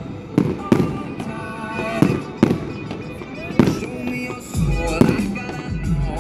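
Fireworks going off in a series of sharp bangs, each with a short rumbling tail, over loud recorded music for the display.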